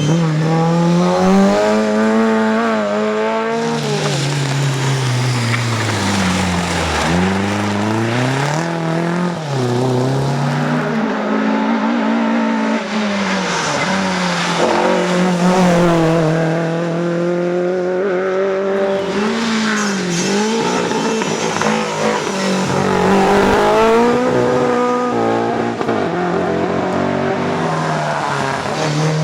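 Rally car engine revving hard, its pitch rising and falling over and over as the car accelerates, lifts off and changes gear, with some tyre squeal.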